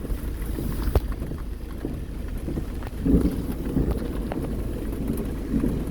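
Car cabin while driving in heavy rain: a steady low rumble from the road and car, with rain beating on the car. There is one sharp knock about a second in.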